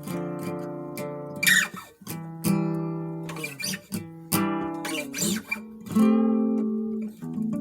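Acoustic guitar strummed chord by chord, each chord ringing on before the next, with a brief sliding squeak twice.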